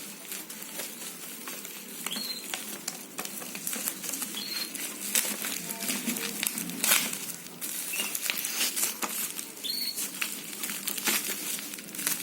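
Irregular rustling and clicking as packaging and a small device are handled, with a few short high chirps now and then.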